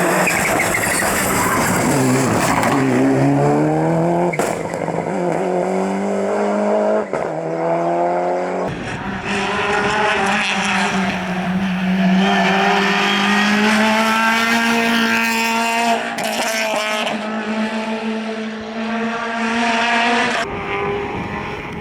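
Rally car engines at full throttle, rising in pitch through several gear changes, then held at high revs for about ten seconds.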